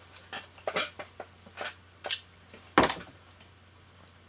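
Metal tools and parts clicking and knocking against a Pfaff 1229 sewing machine's mechanism as it is worked on by hand: a run of short clicks, the loudest about three seconds in.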